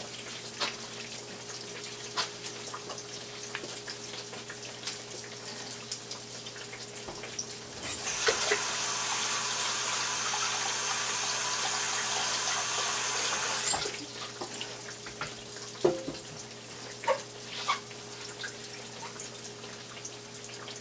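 Breaded eggplant slices frying in a skillet of oil, a steady crackle of small pops over a faint low hum. About eight seconds in, a tap is turned on and runs with a loud even hiss for about six seconds, then stops suddenly.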